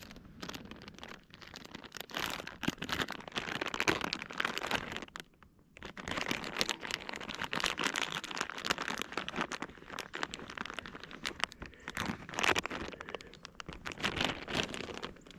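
Crinkling and rustling of a plastic soft-bait bag being handled, with many small crackling clicks, in two long bouts broken by a short pause about five seconds in.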